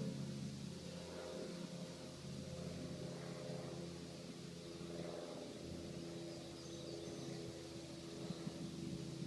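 Steady low machine hum made of several held tones over a low rumble.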